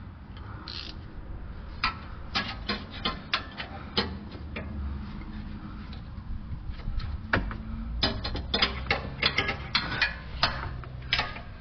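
Hand socket ratchet clicking in two runs of quick, uneven clicks with a pause between, as the exhaust flange bolts are turned loose.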